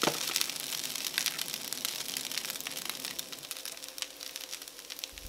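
Egg fried rice sizzling and crackling in a frying pan over a portable gas stove while it is stirred with chopsticks, with a knock at the start; the sizzle slowly dies down toward the end.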